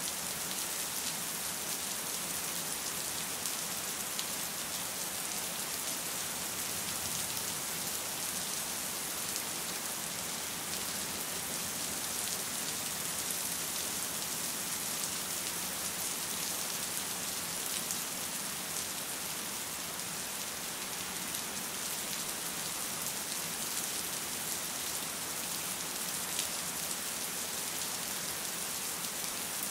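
Steady rain: an even, bright hiss with a fine patter of drops.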